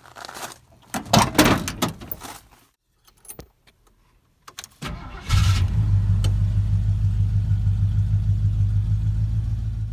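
Rustling and clicking, then about five seconds in a 1979 Ford F-150's engine starts and settles into a steady idle.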